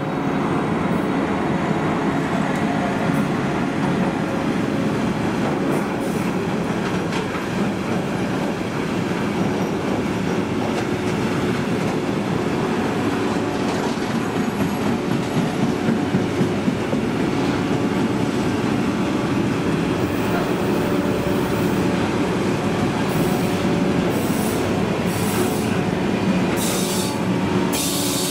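Freight train of tank wagons rolling past at close range: a steady rumble of steel wheels on rail with squealing tones. Several short high hissing bursts come in the last few seconds.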